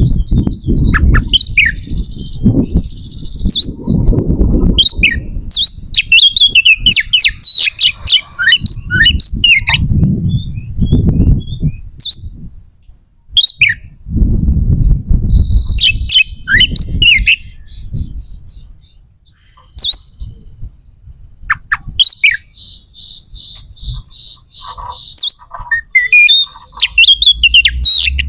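A bird chirping and squawking in many quick high calls, with a few longer steady high notes, about 12 and 22 seconds in. Bursts of low rumbling noise come and go, loudest in the first half.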